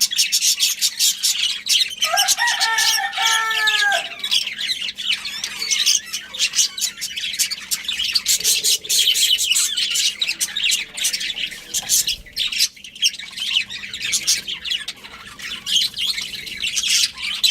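Budgerigars chirping and chattering in rapid high twitters that run on without a break. About two seconds in, a single longer, lower call with a steady, slightly falling pitch lasts under two seconds.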